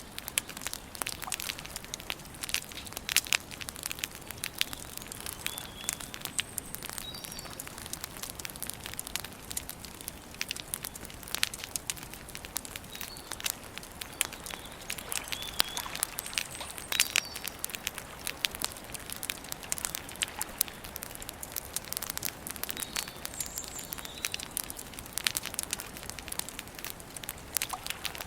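Wood campfire crackling and popping with dense, irregular snaps. A few short, high bird chirps come through now and then.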